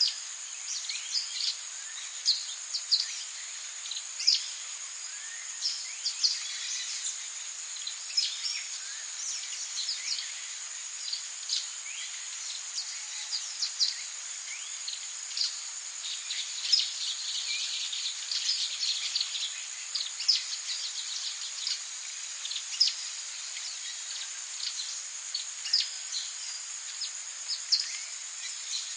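Tropical rainforest ambience: a steady, high insect drone, with many short bird chirps and calls scattered over it, one every second or so.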